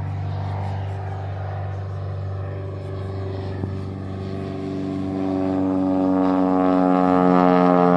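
Cessna 180 Skywagon's six-cylinder piston engine and propeller running steadily, growing louder with a fuller, buzzier tone from about five seconds in.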